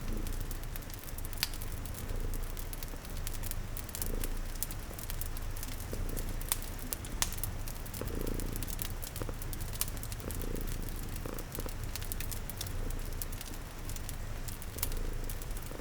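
A cat purring steadily in a low rumble, layered over a crackling wood fire with scattered sharp pops and a constant hiss of rain.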